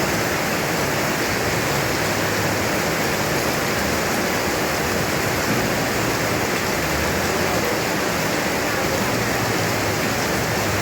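Heavy tropical rain pouring down in a steady, dense hiss that does not let up.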